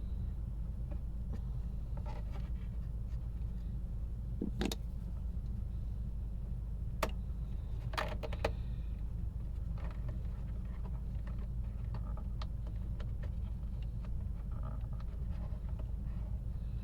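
A steady low rumble with a few sharp clicks and fainter ticks scattered through, the clearest clicks around the middle.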